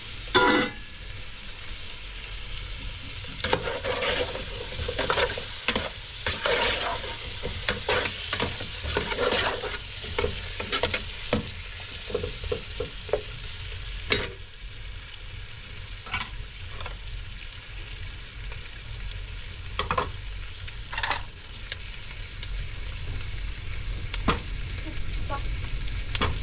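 Food frying in a pan, sizzling steadily, with a utensil stirring and scraping against the pan in irregular strokes that come most often in the first half.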